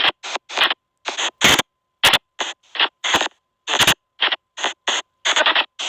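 SP White Noise Box spirit-box app playing rapid, chopped bursts of hissing noise, about two or three a second with short silences between, over a faint steady high tone.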